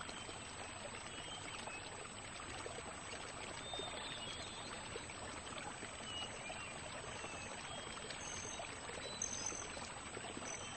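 Faint marsh ambience: a steady soft rush like running water, with scattered short high bird calls.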